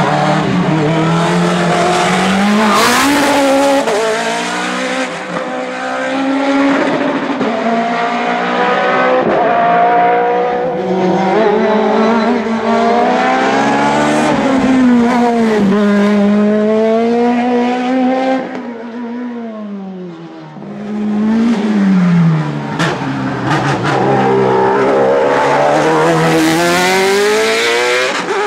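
Hillclimb race car engine under hard acceleration, its pitch climbing through each gear and dropping at the shifts, easing off briefly about twenty seconds in before pulling hard again.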